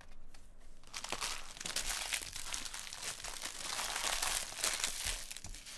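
Trading card pack wrapper being torn open and crinkled by hand, a dense crackling that starts about a second in and lasts for several seconds.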